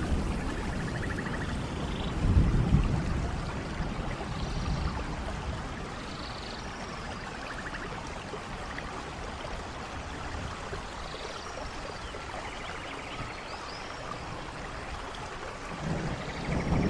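Steady rain falling, with low rumbles of distant thunder about two seconds in and again near the end. Faint high chirps sound now and then over the rain.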